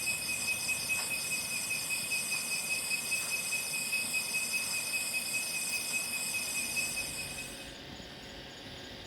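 Insect chorus of crickets or cicadas: a steady high-pitched whine, with a pulsing chirp repeating a little under once a second. It stops about seven and a half seconds in, and a faint low hum is left.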